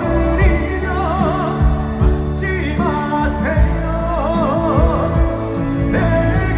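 Live trot ballad: a male voice sings long notes with wide vibrato over band accompaniment with a steady beat.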